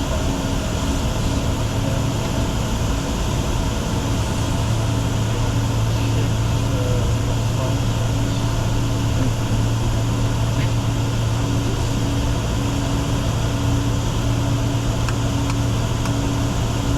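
Steady cockpit noise aboard a Bombardier Challenger 604 jet in flight: rushing air with a low, even hum that grows a little stronger about four seconds in.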